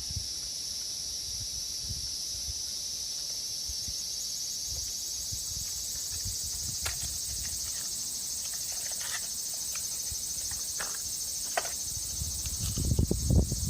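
Steady high-pitched insect chorus that grows denser a few seconds in, with a few short clicks in the middle and low knocking near the end.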